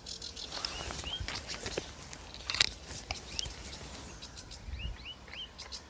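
Sedge warbler singing in the reeds: scattered short, rising chirps with small dry ticks between them, and one sharp click about two and a half seconds in.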